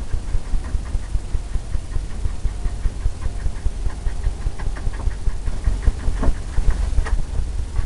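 A blender brush tapping oil paint onto a stretched canvas: a quick, steady run of dull taps, about four or five a second.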